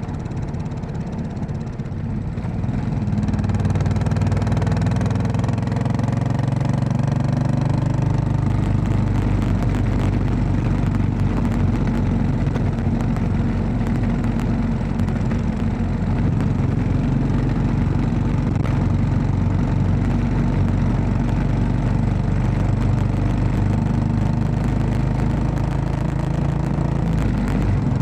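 Royal Enfield Classic 500's single-cylinder engine running under way. It gets louder about three seconds in and rises in pitch for several seconds as the bike accelerates, then holds at a steady cruise.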